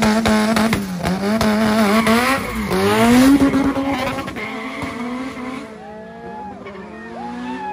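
Car engine revving hard, its pitch wavering, then climbing to its loudest about three seconds in before fading away.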